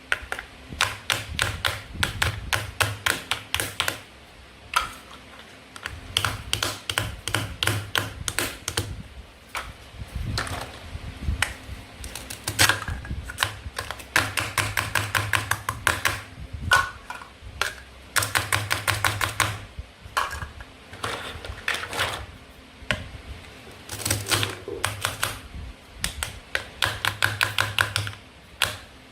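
Toy knife and plastic play food clicking in quick runs of light taps, about eight to ten a second, with short pauses between the runs.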